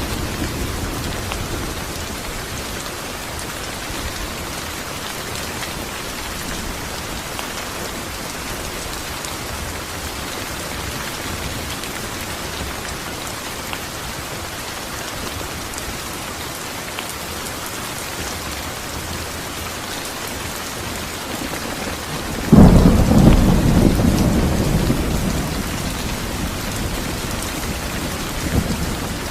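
Steady rain falling, an even hiss throughout. Past the middle a sudden clap of thunder breaks in, the loudest thing here, and rumbles away over several seconds; a low rumble from earlier thunder is fading at the start.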